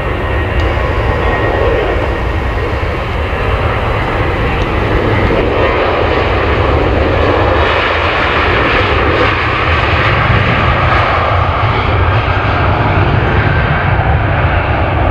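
Boeing 737-800's twin CFM56-7B turbofan engines running at takeoff thrust. A loud, steady jet rumble and hiss that grows slightly louder, its highest hiss fading after about five seconds.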